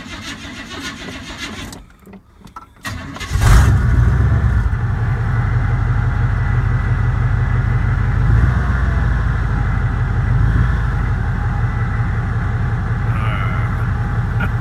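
Toyota engine heard from inside the cab: the starter cranks for about two seconds, stops, cranks again briefly, and the engine catches about three and a half seconds in and settles into a steady idle. The owner says the starter struggles a little.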